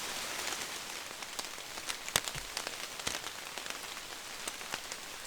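Steady rain falling, an even hiss broken by scattered individual drops ticking sharply, the clearest a little over two seconds in.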